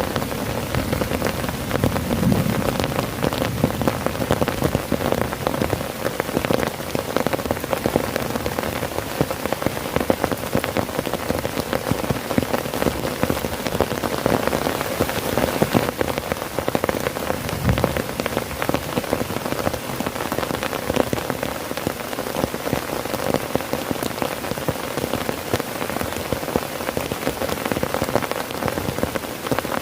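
Heavy rain drumming steadily on a tent's fabric, a dense, unbroken patter of drops.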